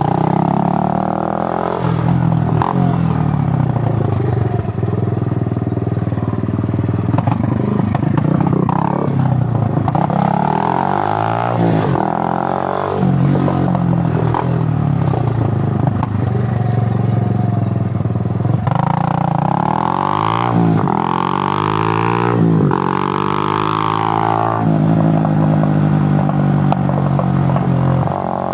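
Suzuki GN 125's single-cylinder four-stroke engine pulling the bike along, its pitch climbing under throttle and dropping back again and again as the rider changes gear and eases off. The climbs are quicker and higher a little past two-thirds of the way through.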